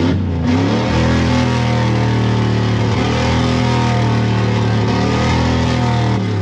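Mud truck's engine revved up hard and held at high revs for about five seconds, then let off near the end: the stuck truck trying to power its way out of the bog.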